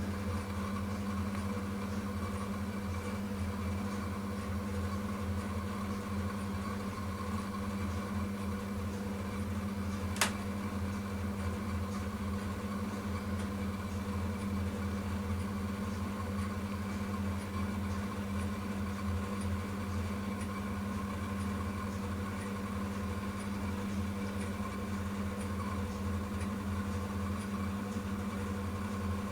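A steady low hum, with a single sharp click about ten seconds in.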